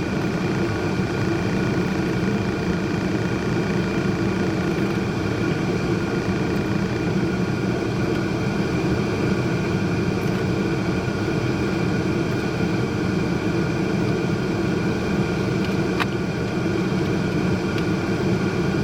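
A steady low rumble of machine noise, like a vehicle or a running air unit, holding even without any change.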